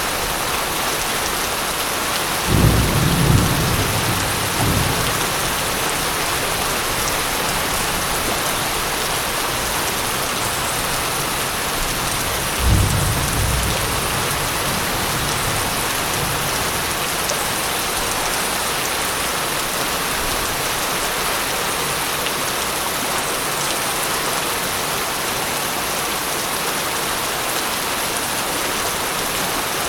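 Steady heavy rain falling, with two low rolls of thunder, one about two and a half seconds in and another about twelve seconds in.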